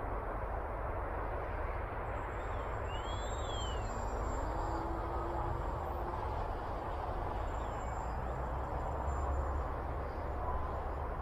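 Steady, even rushing noise, like wind on the microphone, with faint thin whines in it that glide up and down in pitch a few seconds in.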